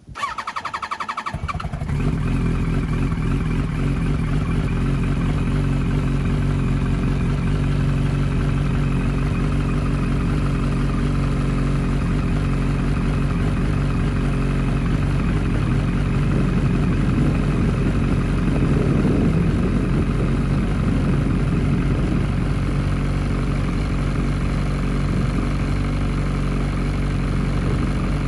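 Cold start of a 2007-2008 Yamaha R1's inline four-cylinder engine, breathing through an aftermarket Akrapovic Y-pipe and Scorpion canister. The starter cranks briefly, the engine catches about two seconds in, and it settles into a steady cold idle.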